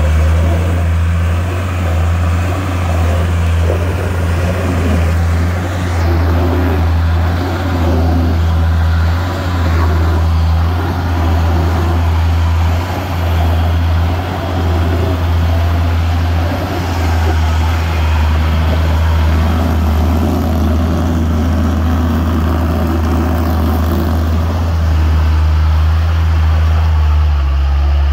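Vehicle engine running steadily, a loud low drone with a few brief dips, while the vehicle is driven.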